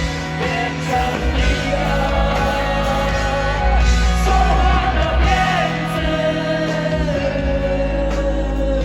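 A live rock band playing at full volume, with a voice singing over the band.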